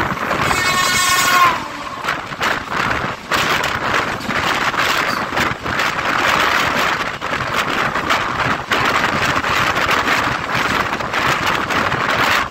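An oncoming train's locomotive horn blows as it passes, its pitch dropping sharply near the end. Then comes the steady rush and clatter of the passing coaches' wheels on the adjacent track, with irregular knocks over the rail joints.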